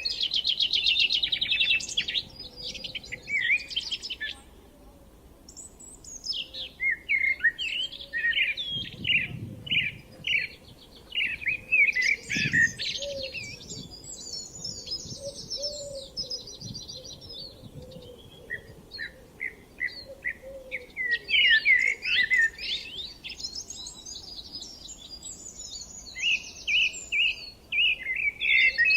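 Songbirds singing: overlapping phrases of chirps, trills and warbles from more than one bird, with a brief lull about five seconds in.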